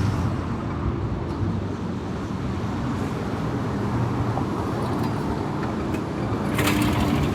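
Car driving at road speed: a steady low rumble of engine and tyre noise, with a brief hiss about six and a half seconds in.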